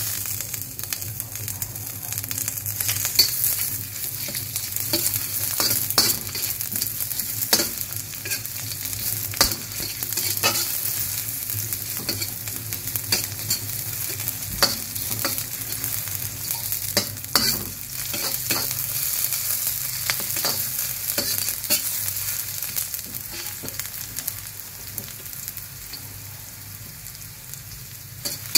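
Sliced onion and chopped garlic sizzling in hot oil in a stainless-steel wok, with a metal slotted spatula scraping and clicking irregularly against the wok as they are stirred.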